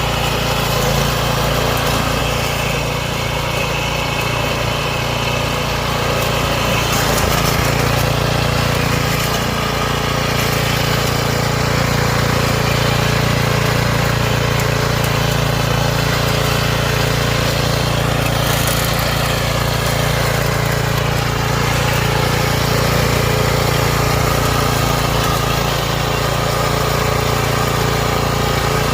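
Homemade remote-controlled lawn mower running steadily, its motor holding an even speed throughout.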